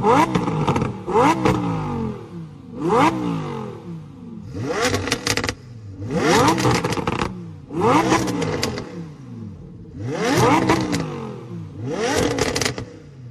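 Car engine revving in a series of about eight short bursts, one every one and a half to two seconds, each rising quickly in pitch and then falling away.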